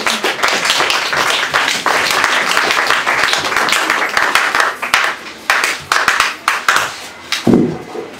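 Congregation applauding. The clapping is dense for about five seconds, then thins to scattered claps.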